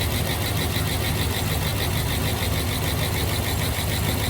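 Dodge Ram Hemi V8 idling steadily with a fast, even ticking on top, running cold and still warming up while the oil works through to the lifters.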